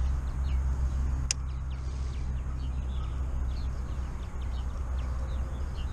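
Small birds chirping faintly and repeatedly over a steady low rumble, with a single sharp click about a second in.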